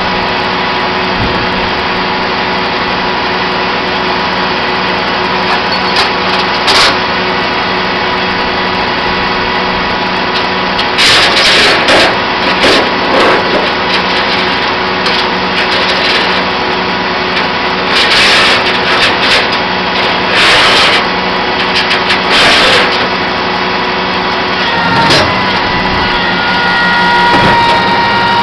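Flatbed tow truck's diesel engine running steadily during loading, with several short bursts of noise in the middle and a steady whine that comes in near the end.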